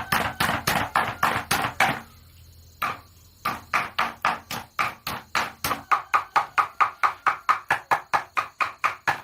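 Rapid, even chopping strikes, about five a second, typical of a knife or cleaver chopping on a wooden board. They pause for nearly a second about two seconds in, then carry on steadily.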